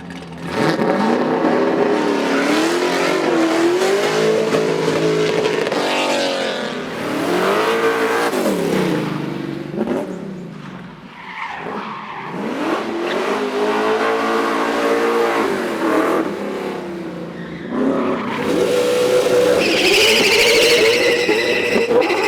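Race car engines revving hard, the pitch climbing and dropping repeatedly through gear changes and lifts, with a dip about halfway. Tyres squeal loudly in the last few seconds as a car slides.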